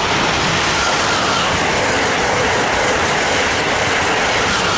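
Amtrak Acela Express high-speed electric trainset passing close by at speed: a loud, steady rush of wheels on rail and air.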